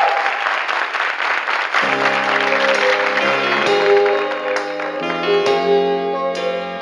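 Studio audience applauding; about two seconds in, soft sustained keyboard chords begin as the intro of a slow ballad, and the applause fades under them.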